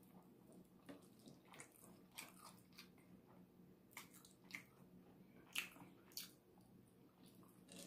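Faint close-up eating sounds of rotisserie chicken: soft chewing and wet mouth clicks, with two sharper clicks a little past the middle.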